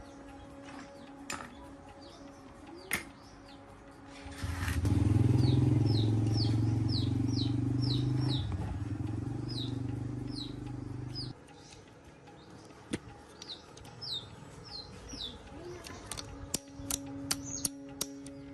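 A motor runs loudly and steadily for about seven seconds, then cuts off abruptly. A bird gives repeated short, falling chirps throughout, and a quick series of sharp metallic clicks comes near the end.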